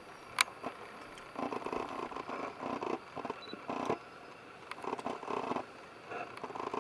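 Golden-winged laughingthrush giving low, harsh churring calls in several bursts, with a sharp click near the start.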